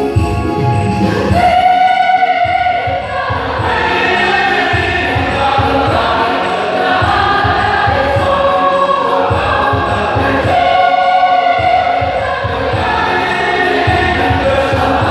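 A church choir singing together, with sustained, shifting chords of many voices.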